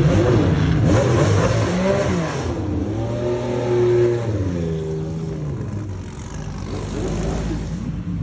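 Race car engines accelerating and revving, the engine pitch rising and falling several times over a steady low engine drone.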